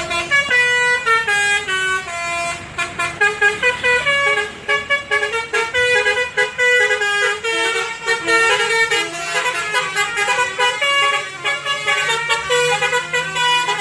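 Live band music: a fast melody of short notes stepping up and down.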